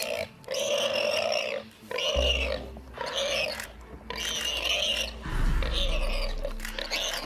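A lion grappling a warthog: a run of loud animal cries, each about a second long with short breaks between them, over a low rumble.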